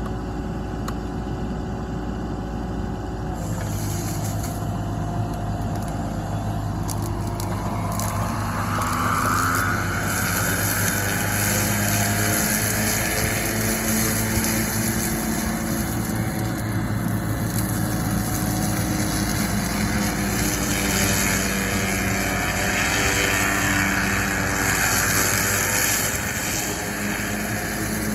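Yanmar ViO30-6 mini excavator with a Cutterman KM30 flail mower attachment, its three-cylinder diesel engine running steadily. A higher whine rises about eight seconds in and then holds.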